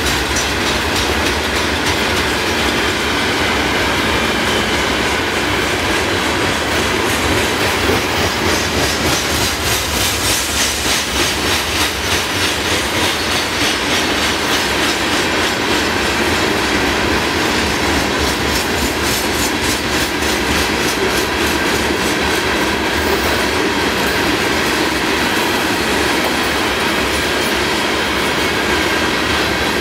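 Freight train of covered hopper cars rolling slowly past: a steady rumble of steel wheels on the rails with regular clickety-clack of the wheels over rail joints, the clicks most distinct around the middle.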